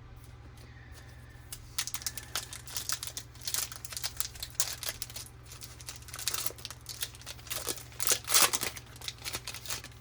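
Foil wrapper of a Topps baseball card pack crinkling and tearing open by hand. A run of sharp, irregular crackles begins about a second and a half in and is loudest near the end.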